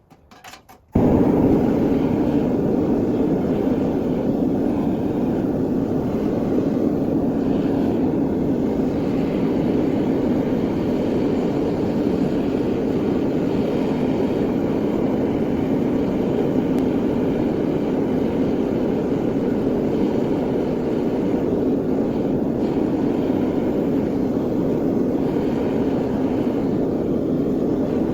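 A loud, steady rushing roar that starts abruptly about a second in and holds unchanged.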